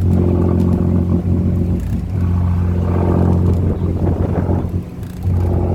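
Tour boat's engine running steadily under load, with a deep, even hum that dips briefly twice.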